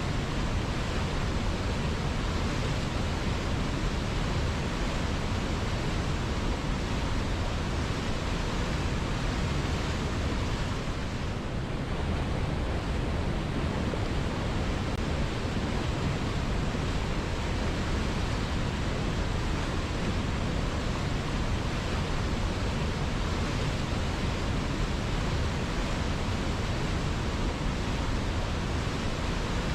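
River water flowing, a steady rushing with a deep low rumble and no break, briefly softer in the higher range about eleven seconds in.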